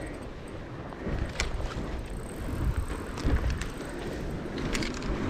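Wind rumbling on the microphone, with a few light clicks and knocks.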